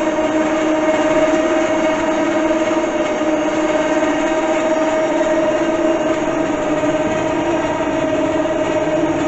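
Electric winch motor on a Kawasaki Mule running with a steady whine. The winch cable is bunched up and tangled rather than wound neatly on the spool.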